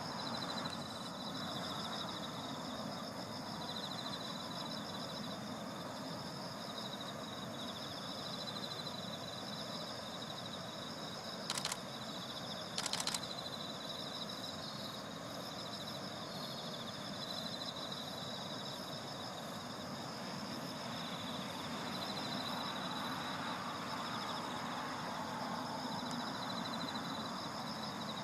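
Steady high-pitched outdoor chorus, typical of insects, trilling without a break over a soft noise bed. Two brief loud noisy bursts, a second or so apart, near the middle.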